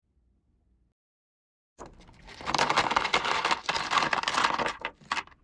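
Unboxing handling of crystals and their packaging: after a couple of seconds of near silence, about three seconds of dense rattling and clinking, then a few separate clicks near the end.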